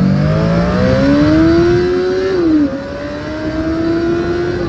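1985 Suzuki GS700E's inline-four engine pulling under acceleration, its pitch rising steadily, then dropping sharply about two and a half seconds in as it shifts up a gear, and rising again.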